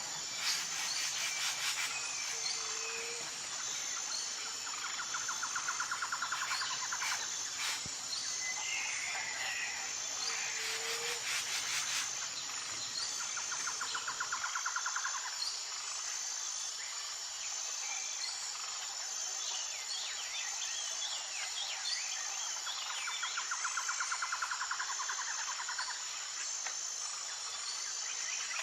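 Tropical forest soundscape: a steady high insect drone with a pulsing tone in it, under scattered bird calls. A rapid trill comes three times, and a low hooting call sounds twice in the first half.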